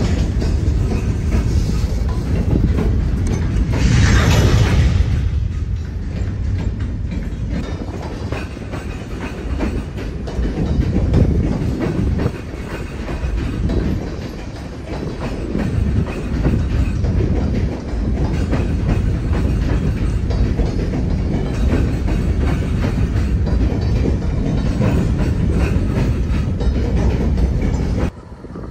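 A Norfolk Southern train of steel coal hopper cars rolling by close to the track, a continuous low rumble and rattle of the wheels and car bodies. A brief higher rush of noise rises over it about four seconds in.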